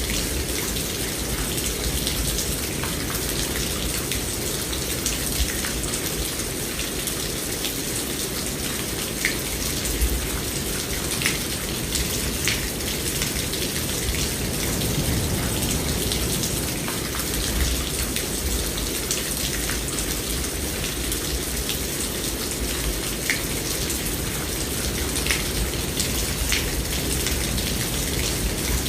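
Steady rain, with individual drops ticking sharply now and then over a low, swelling rumble underneath.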